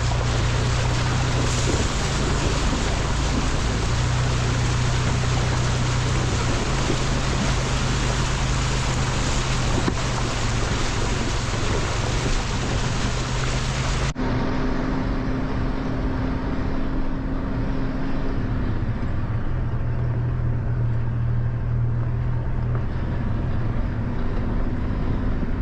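A truck's engine running while it drives, with a steady low hum under loud wind and road rush. About fourteen seconds in the sound changes abruptly: the hiss turns duller and a second, higher hum comes in.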